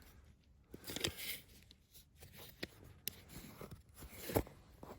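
Small diecast toys and plastic pieces being handled and sorted: scattered light clicks, taps and scrapes.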